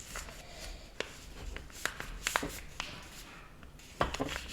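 A sheet of paper being handled, folded and creased by hand: soft rustling broken by several sharp crinkles and taps, the loudest about four seconds in.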